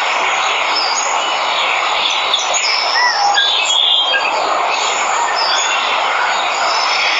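Steady rush of a waterfall with jungle birds chirping and whistling over it, including a few short rising-and-falling calls.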